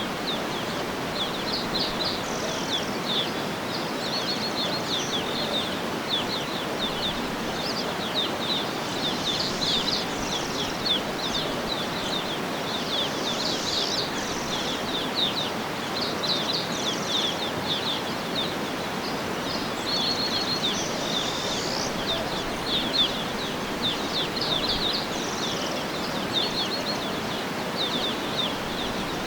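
Small birds chirping and trilling in quick, overlapping bursts, over a steady background hiss of outdoor ambience.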